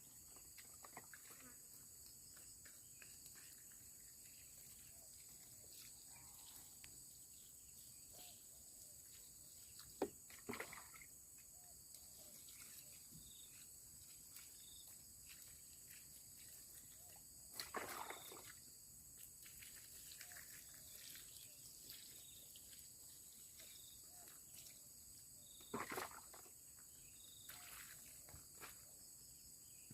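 Faint night-time forest ambience: a steady high-pitched insect chorus, with a few brief knocks or rustles spread through.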